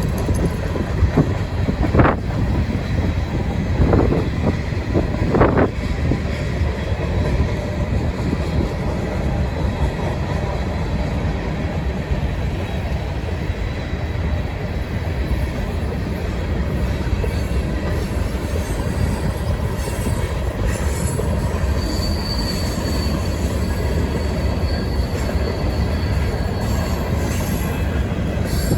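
Empty coal train rolling past with a steady rumble of steel wheels on rail. A few sharp clanks come in the first six seconds, and a faint high wheel squeal sets in past the middle.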